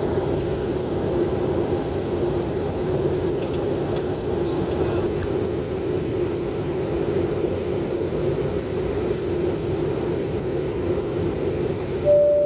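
Steady drone of an airliner's engines and airflow heard from inside the cabin, even and unchanging. Near the end a short single electronic tone sounds once.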